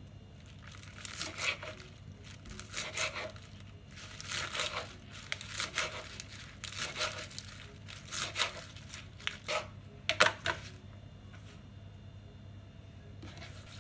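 Repeated crinkling and tearing by hand, in short bursts about once every second or so, with a few sharp crackles near the end.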